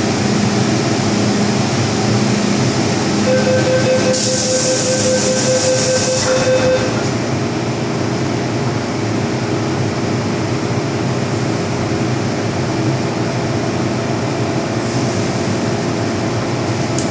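Inside an MTR M-Train metro car as it departs: a pulsing door-closing warning tone. About four seconds in comes a short hiss of air, followed by the steady running noise of the train pulling away.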